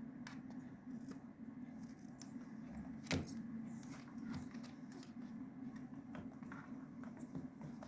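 African grey parrot's beak clicking and tapping at an object in small scattered ticks, with one sharper knock about three seconds in, over a steady low hum.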